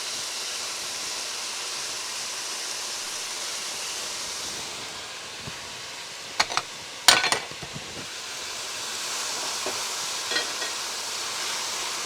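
Stir-fried vegetables and sauce sizzling steadily in a non-stick pan over high heat. The sizzle eases about halfway through and swells again near the end. A few sharp clacks of the stirring utensil against the pan come around the middle.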